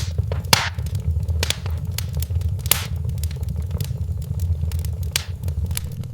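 Wood fire crackling in a fireplace, with irregular sharp pops, the strongest near the start, about half a second in, a little before the middle and about five seconds in, over a steady low rumble.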